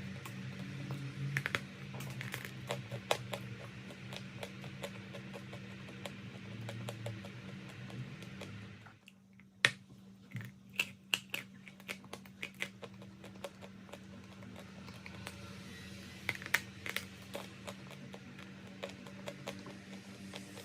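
Chalk being crunched: a long run of crisp, sharp cracks and crackles, with a short pause about nine seconds in followed by a cluster of louder snaps.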